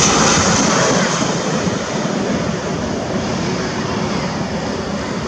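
Jet airliner on low approach just past overhead: its engine roar and high whine fade over the first second or two, leaving a steadier, lower rumble.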